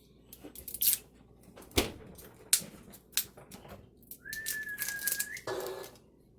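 Sharp knocks and clatter of bottles and containers being moved about while rummaging through a refrigerator, then a single high whistling tone held for just over a second, about four seconds in.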